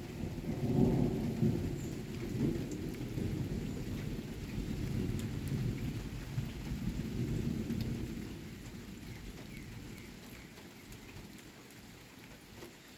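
Thunder rumbling low and rolling over steady rain, loudest in the first couple of seconds and dying away over the second half, leaving the rain hiss with scattered drop ticks.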